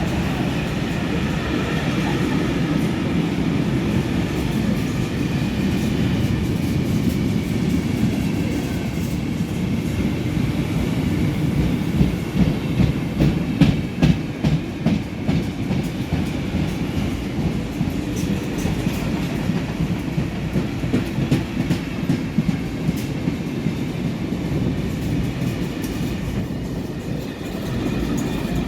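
A train running past with a steady rumble. Through the middle comes a regular run of wheel clacks over the rail joints, about two a second.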